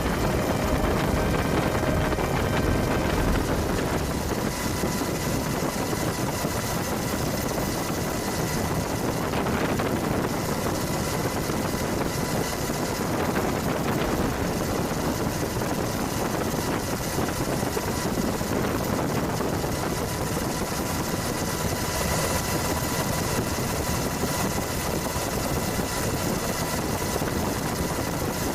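Steady engine noise with a constant rushing hiss and a few faint steady tones, unchanging throughout.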